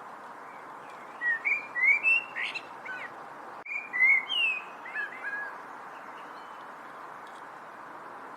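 A songbird singing two quick phrases of short, sliding whistled notes, about a second in and again near the middle, over a steady hiss.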